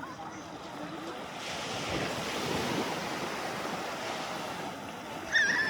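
Sea waves washing in, a broad rushing swell of surf that builds about a second and a half in and holds. A person's voice cuts in briefly near the end.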